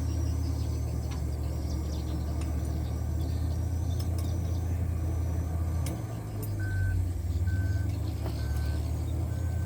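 Isuzu Giga dump truck's diesel engine idling with a steady deep rumble that dips and shifts about six seconds in. From about two-thirds of the way through, a short electronic beep repeats about once a second.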